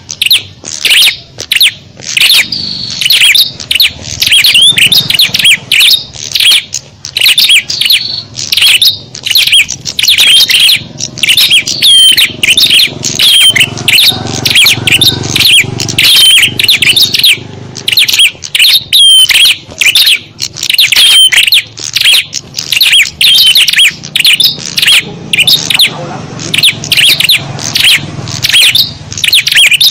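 Loud, dense chatter of many small birds chirping and twittering rapidly without pause, a bird-lure recording of a noisy small-bird flock.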